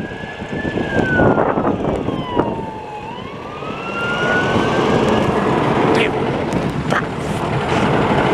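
Police car siren wailing, its pitch sliding slowly down and then back up, over loud, steady street and vehicle noise.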